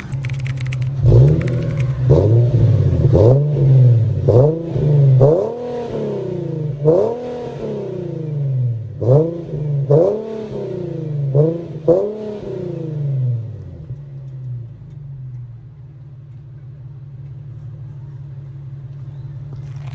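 Tuned Dodge Charger's Hemi V8 revved in quick blips through a quad-tip exhaust, about ten rises and falls in pitch over some twelve seconds, then settling back to a steady idle.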